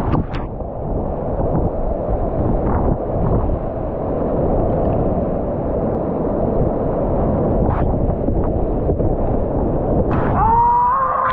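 Whitewater rapids rushing, a steady loud noise of moving water. About ten seconds in, a person lets out a long held yell.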